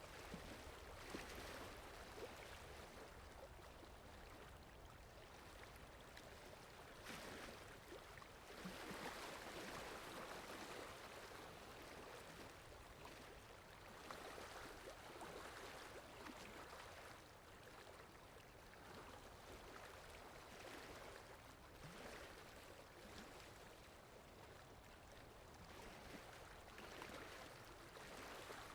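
Faint flowing-water ambience, a steady rush that swells and eases every few seconds.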